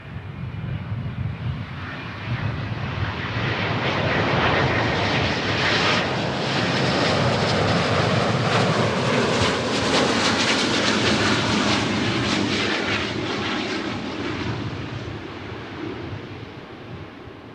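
Jet airliner's engines passing by: a rushing engine noise that swells over the first few seconds, stays loud for several seconds, then slowly fades.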